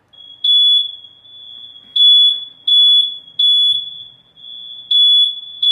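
Home smoke alarm going off with a loud, shrill single-pitched tone, pulsing in groups of three beeps. It was set off by burnt, greasy cooking.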